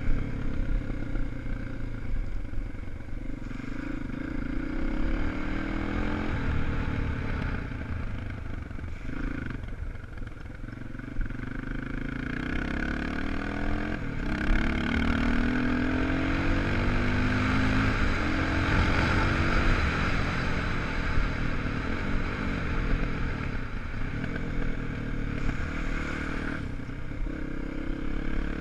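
A 250 cc enduro motorcycle engine being ridden hard, rising in pitch as it accelerates and stepping back down with each gear change, twice over. Clattering and scraping mix in with the engine note.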